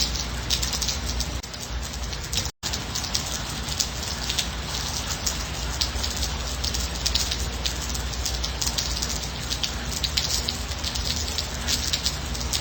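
Gentle rain falling steadily, with many individual drops pattering. The sound cuts out completely for a split second about two and a half seconds in.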